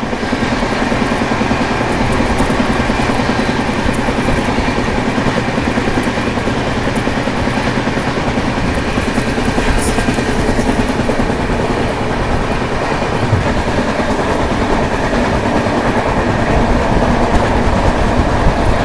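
Track sound of the Puri–Okha Express: the coaches' wheels running over the rails, a loud, steady rumble and clatter.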